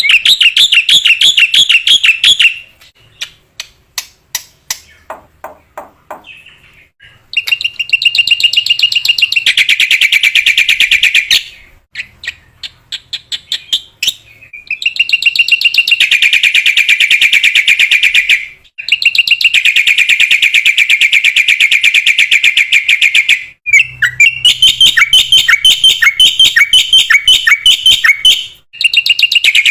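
Black-winged myna singing: long runs of fast, rapidly repeated shrill notes, broken by short pauses, with a stretch of scattered single notes early on.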